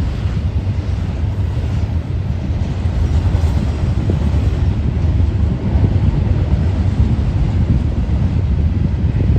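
Double-stack container train rolling past at close range: a loud, steady low rumble of steel wheels on rail that eases off at the very end.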